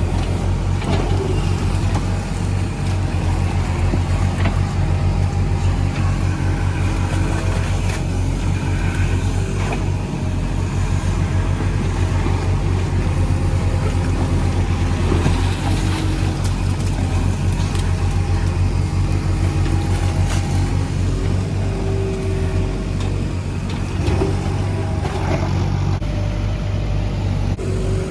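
Diesel engine of a JCB 3DX backhoe loader running steadily under load, a deep engine hum with a few steady higher tones over it, while the machine works to pull a stuck excavator out of mud.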